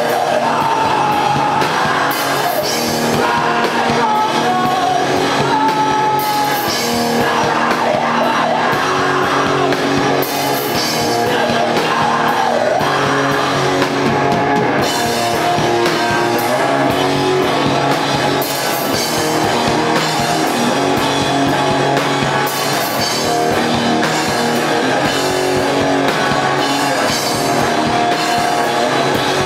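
A rock band playing loud and live: electric guitar and a drum kit, with a voice singing over them.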